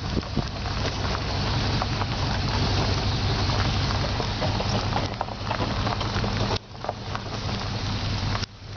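Vehicle engine running steadily while driving, heard on board, with a noisy rustle and scattered small clicks over it; the sound dips briefly twice near the end.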